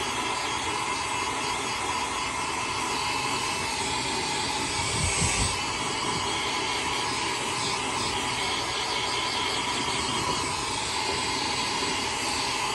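Handheld hair dryer running, a steady rushing blow of air with a whine in it, and a brief low rumble about five seconds in.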